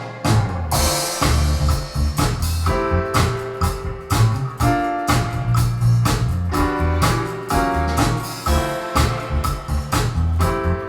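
Music played through a Teufel Ultima 40 Mk3 loudspeaker: a band track with a steady drum beat, a strong bass line and guitar.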